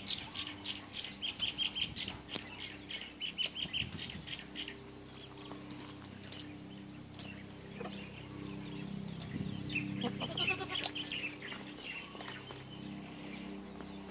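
A small bird chirping rapidly, about five high chirps a second, for the first four seconds or so, over a steady low hum; scattered light clicks and rustling follow.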